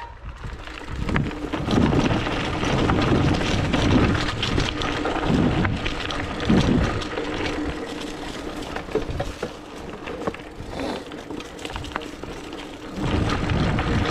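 29er hardtail mountain bike riding a dirt trail: wind buffeting the action-camera microphone in low rumbling gusts, over tyre noise and the bike's steady clicking and rattling.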